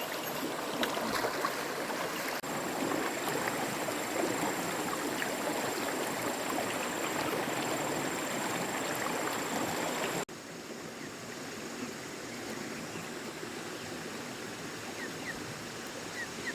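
Stream water rushing steadily. About ten seconds in it cuts abruptly to a quieter stretch of running water.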